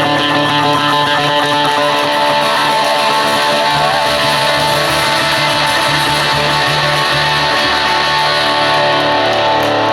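Live band music led by guitars, with electric guitar lines bending in pitch over a steady bass, playing an instrumental passage.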